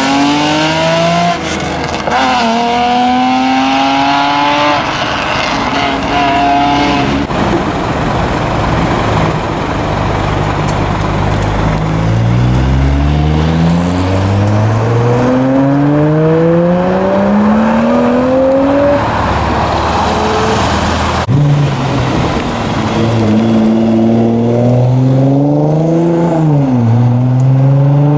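Modified cars with loud aftermarket exhausts accelerating hard one after another, each engine's pitch climbing through the gears with drops at the shifts. The sound changes abruptly twice, at about seven seconds and again near twenty-one seconds.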